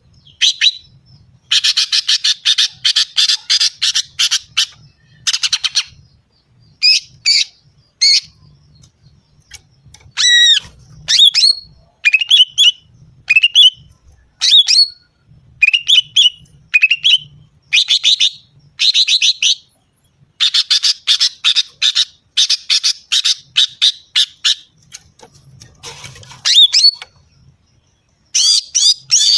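Female greater green leafbird (cucak ijo) calling, the call used as a lure to excite males. It gives fast, harsh chattering rattles broken by short, sharp whistled notes that sweep up and down, in bursts with brief pauses between them.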